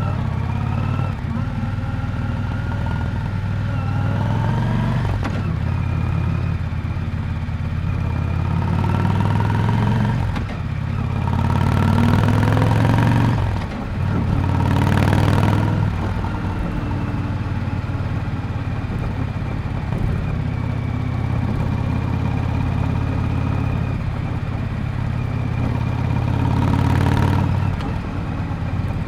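Exhaust of a 1998 Yamaha Drag Star 400 Classic's V-twin engine while riding. The note climbs with the throttle and drops off several times as the rider changes gear, with a few brief rushes of noise around the middle and near the end.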